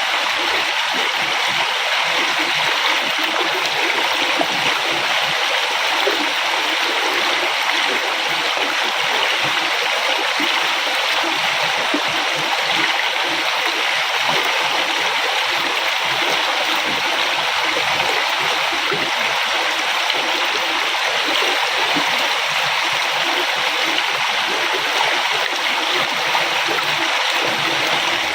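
River water flowing steadily over rocks: a constant rushing with bubbling, splashing gurgles underneath.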